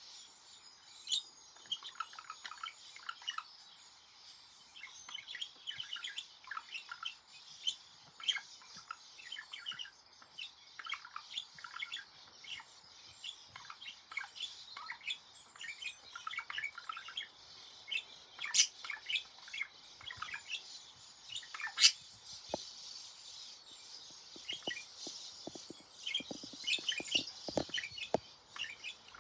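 Pet budgerigar warbling: a long, unbroken run of quick chirps and chattering notes, broken by two sharp loud clicks about two-thirds of the way through.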